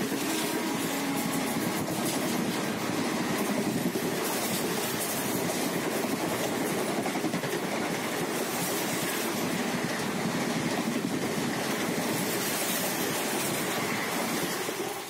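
Steady rumble and clatter of a train running on the rails, holding an even level throughout.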